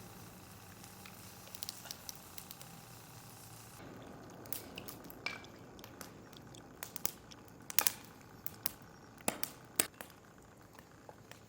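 Cooking on an iron griddle over a fire pit: scattered sharp clicks and clinks of metal utensils against the plate over a faint steady hiss, busier and louder from about four seconds in.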